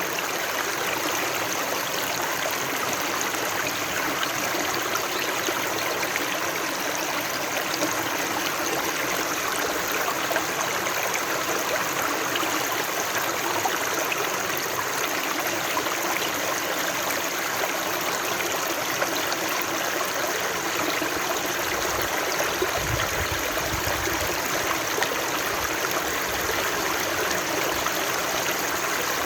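Running water of a stream, flowing steadily as an even, unbroken rush.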